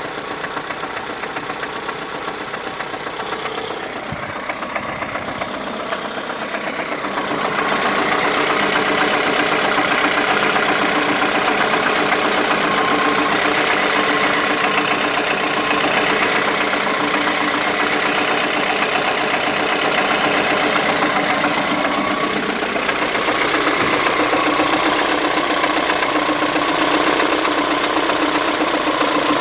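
Engine treated with a NIOIL tribotechnical anti-friction additive, running steadily. It gets louder about seven seconds in and holds there.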